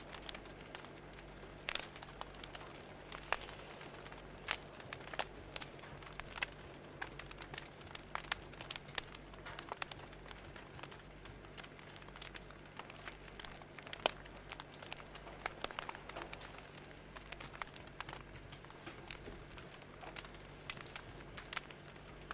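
Crackling fire: irregular sharp pops and snaps, several a second, over a steady low hum.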